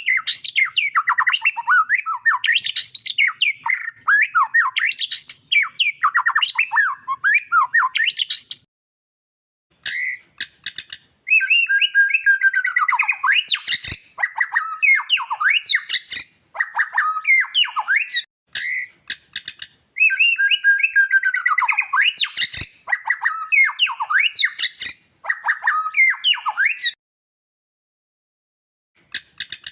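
White-rumped shama (murai batu) singing: long runs of rapid, varied whistled and warbling phrases. There is a pause of about a second roughly nine seconds in, and a silence of about two seconds near the end.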